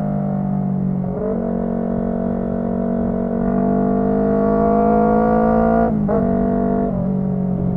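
Honda CB125T parallel-twin engine with a loud aftermarket muffler, riding under load. Its pitch climbs steadily as it accelerates and drops at gear changes about a second in and again around six and seven seconds.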